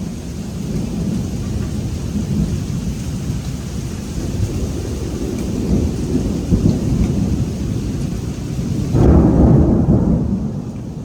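Rolling thunder rumbling over steady rain; the rumble swells to its loudest about nine seconds in, as the rain hiss suddenly fades.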